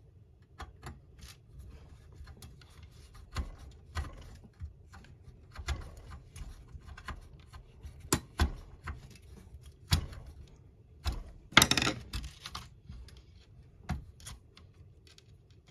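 Small plastic model parts and wires being handled: irregular clicks, taps and light knocks, with a short louder scrape or rustle about two-thirds of the way through.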